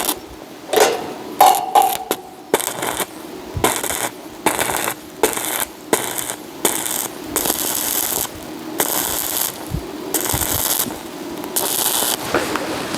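Metalwork on tin roofing: a run of short crackling bursts, each about half a second long, as in tack welding, with sharp metal clinks between them.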